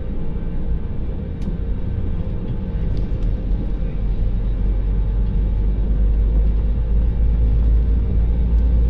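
Steady low rumble of an airliner's engines and airflow heard from inside the cabin, with a faint steady hum, growing louder about four seconds in.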